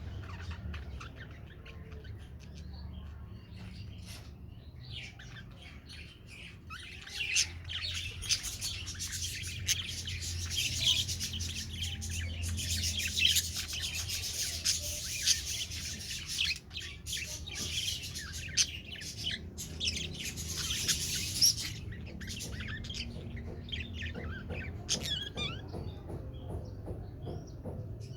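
Budgerigars chirping and chattering in a dense run of quick, high calls, busiest through the middle, over a low steady hum.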